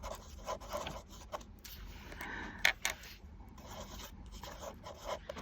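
Black fine-liner pen drawing short strokes on a paper tag: a faint scratchy rubbing broken by a few sharper ticks, the clearest a little past the middle.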